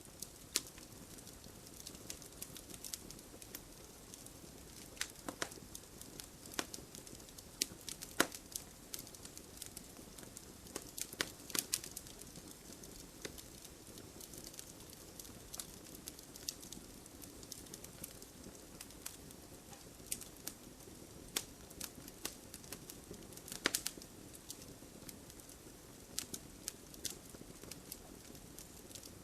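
Fire burning in a fireplace: a steady low rumble of flames with irregular sharp crackles and pops, some of them louder snaps.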